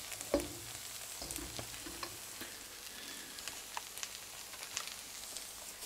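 Chopped wild mushrooms sizzling in a hot wok, stirred with a spatula that scrapes and clicks against the pan, with one sharper knock about a third of a second in.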